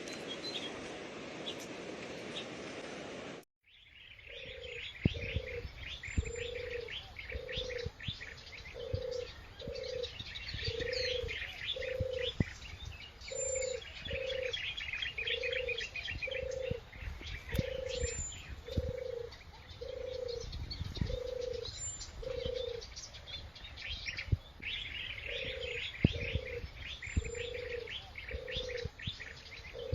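A dove cooing in a steady run of low, evenly repeated notes, over many small birds chirping and twittering. Before this, a steady noise cuts off sharply about three seconds in.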